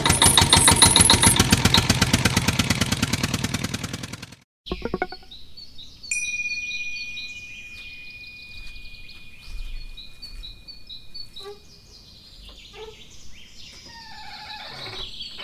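An engine running with an even, rapid chugging that fades over about four seconds and then cuts off abruptly. After it come quieter bird-like chirps and whistles, with a steady high tone for a few seconds.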